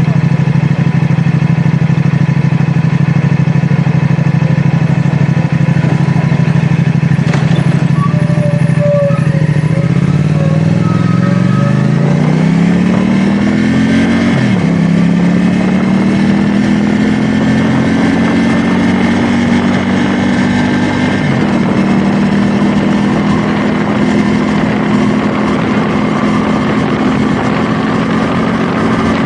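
CFMoto 450SR S's 449 cc parallel-twin engine running steadily, then pulling up through the revs from about a third of the way in. The pitch drops suddenly twice, about halfway and about two-thirds through, as it shifts up. After that it holds a steady cruising note.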